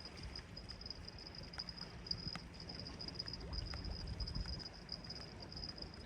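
Steady, high insect chirring that pulses finely without a break, over a low rumble of sea and wind. A few faint ticks are scattered through it.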